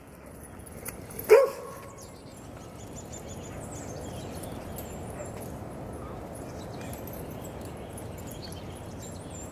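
A dog gives a single bark about a second in, then steady outdoor background noise with faint high chirps.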